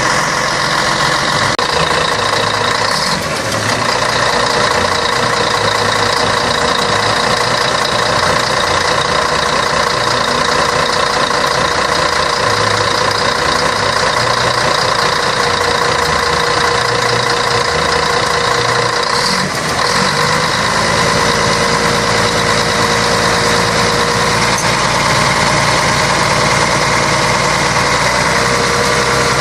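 Scania K113 bus's 11-litre six-cylinder diesel engine running steadily, with two brief dips in level, about three and a half and nineteen seconds in.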